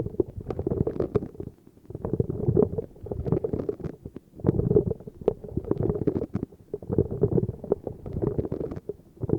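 Rapid, muffled tapping close to the microphone, in dense bursts with brief pauses between them.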